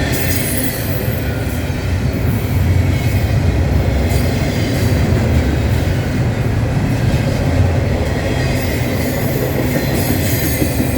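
Norfolk Southern freight train rolling past: a steady loud rumble of wheels on rail, with thin, high wheel squeals at the start and again near the end.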